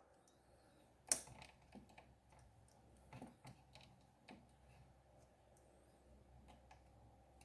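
A few faint, scattered clicks and taps from multimeter probe tips being placed on and pressed against a microwave control board's components during diode testing. The sharpest click comes about a second in.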